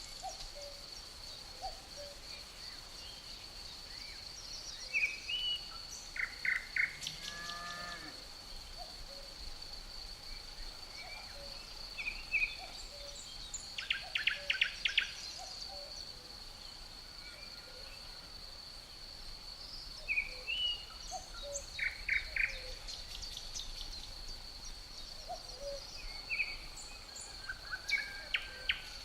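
Forest ambience: a steady high-pitched insect trill, typical of crickets, with songbirds chirping and trilling in short bursts every few seconds over it.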